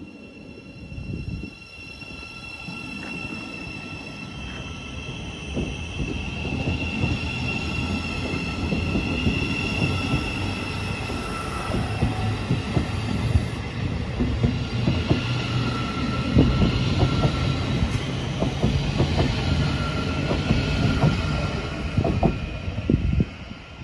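Thameslink Class 700 electric multiple unit pulling out and gathering speed: a steady high whine and wheel noise over a low rumble, getting louder as it picks up speed, with scattered clicks of wheels over rail joints in the second half. The sound drops away shortly before the end.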